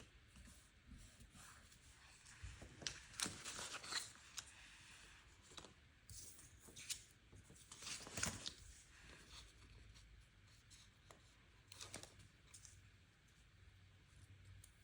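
Faint paper-crafting sounds: stickers being peeled and pressed onto planner pages, with paper rustling, in short scattered scrapes, busiest a few seconds in and around eight seconds, with another near twelve seconds.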